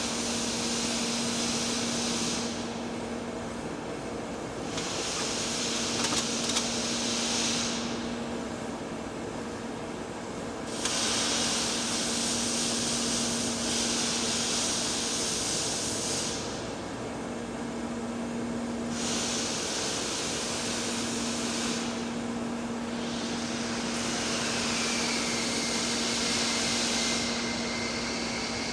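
TIG welding arc on thick-walled steel pipe hissing in stretches of a few seconds, with short breaks between them, over a steady low hum.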